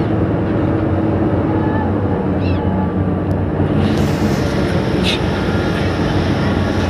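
A steady low engine drone, with a few brief, faint bird chirps over it about two and a half seconds in and again near five seconds.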